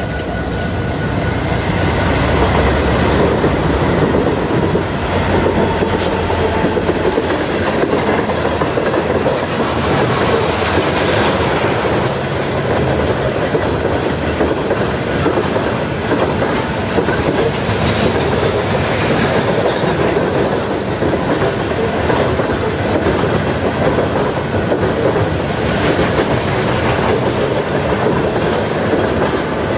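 Norfolk Southern freight train passing close by, its cars rolling and clattering over the rails in a steady, loud rumble.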